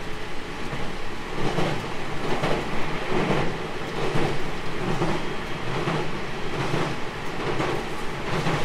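Running sound of a JR Central 313 series 2500 subseries electric train under way: a steady rumble of wheels on rail, with an even clatter a little more often than once a second.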